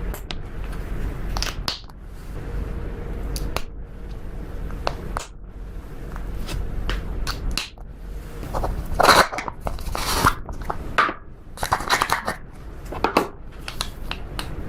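Slime being squished, stretched and folded by hand, giving a run of sticky pops and crackles that comes thicker and louder in the second half.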